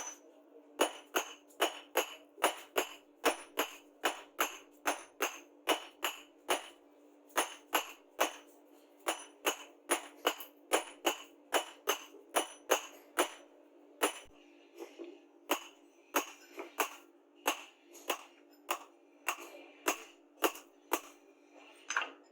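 Hammer blows on steel in a steady rhythm, about two or three a second, each with a short metallic ring. The blows grow lighter and less regular about two-thirds of the way through.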